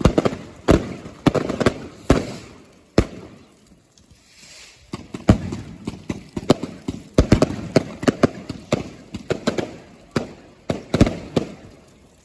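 Fireworks going off, a rapid, irregular string of sharp bangs and crackles with a short lull about four seconds in.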